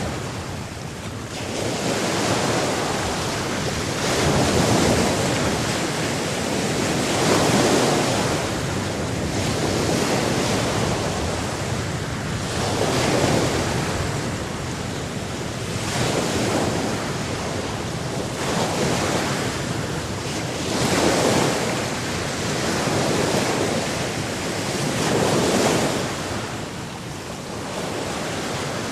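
Sea waves washing in, a continuous rushing hiss that swells and falls back every few seconds.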